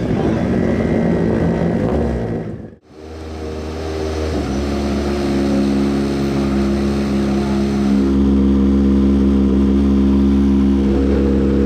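Rally car engine noise, cut off abruptly about three seconds in, then an engine running at a steady, unchanging speed that grows a little louder about eight seconds in.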